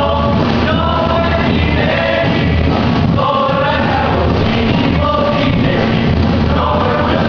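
Live band music with a singing voice over a steady bass line.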